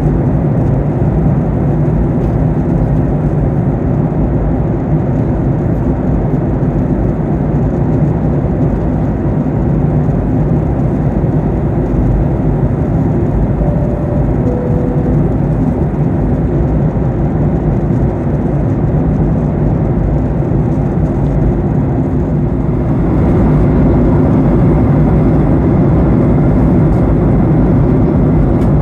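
Steady in-flight cabin noise of a Boeing 737-800 airliner: a constant low roar of engines and airflow. About halfway through there is a faint two-note falling chime. Near the end the roar steps up and becomes louder and brighter.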